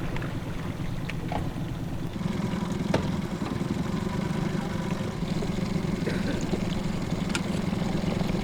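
Boat's outboard motor idling steadily; its pitch steps up slightly about two seconds in, with a couple of faint clicks over it.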